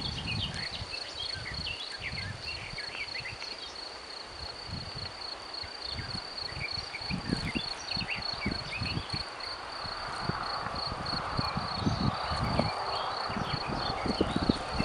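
Insects trilling outdoors: a steady, evenly pulsing high-pitched buzz throughout, with scattered short bird chirps. Irregular low thumps and a rustling hiss that grows louder in the second half sit beneath it.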